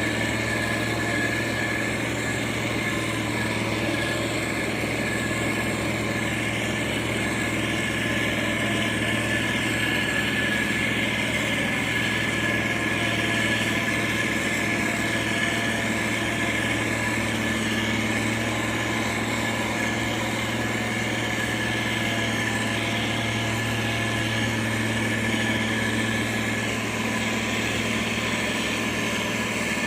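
Motor grader's diesel engine running steadily with a constant low drone and a steady high whine over it.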